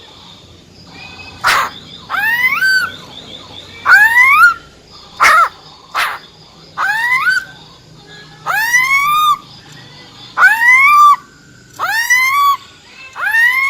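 Female black-throated laughingthrush giving its 'ro ro' calls: a string of upward-sweeping notes, each under a second long, repeated every one to two seconds, with a few sharp clicks between them.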